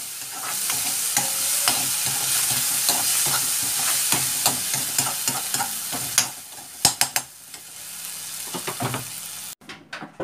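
Chopped onion, green chilli, garlic, ginger and tomato sizzling in oil in a metal kadai while a spatula stirs them, clicking and scraping against the pan. There are a few sharper knocks about seven seconds in, and the sizzle dies down after about six seconds.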